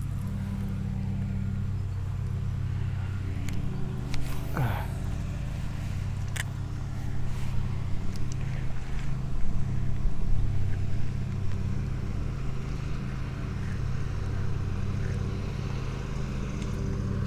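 A motor engine running steadily with a low drone throughout, with a few clicks and a brief sound falling in pitch about four to five seconds in.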